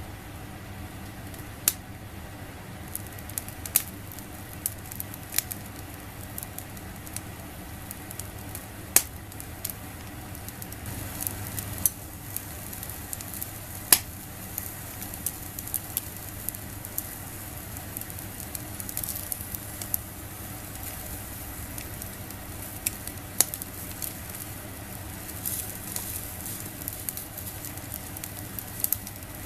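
Squid grilling on a wire mesh over a small solid-fuel fire: steady sizzling with scattered sharp pops and crackles.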